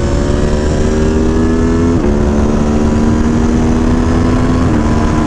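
Aprilia Tuono V4 Factory's V4 engine, tuned with a Gabro Racing Stage 3 kit and an RSV4 airbox, pulling under gentle acceleration. Its pitch climbs slowly and drops at two upshifts, about two seconds in and again near the end. Wind noise runs underneath.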